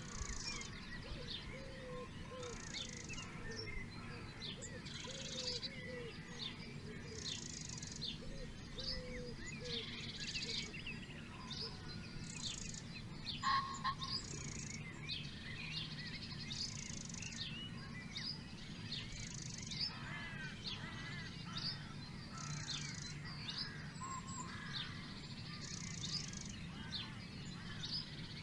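A chorus of songbirds: many quick high chirps and whistles, with a short high trill repeated about every two seconds, over a low steady background rumble.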